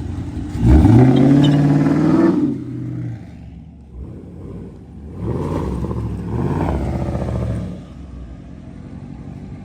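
Car engine revved twice: a sharp rise about half a second in, held for under two seconds, then a second, slightly softer rev a few seconds later, idling in between.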